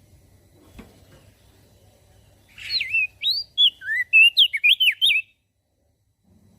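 Crested dark-eye (opior jambul) singing one quick phrase of sliding whistled notes, beginning about two and a half seconds in and lasting nearly three seconds.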